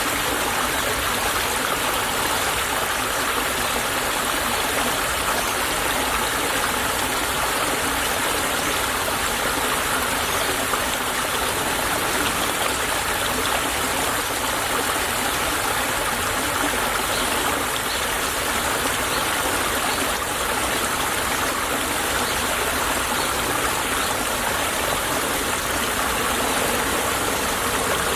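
Small stream running steadily over stones, a continuous babbling rush of water.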